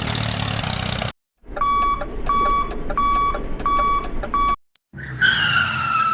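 A steady engine-like hum that cuts off about a second in, followed by about five evenly spaced electronic beeps like an alarm clock, then a single high tone sliding slowly downward.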